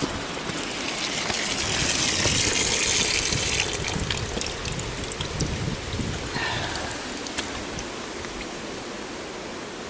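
Water running from an open tap as the freshly refilled lines are bled of air, a hissing rush that swells over the first few seconds and then eases, with small irregular spits and clicks.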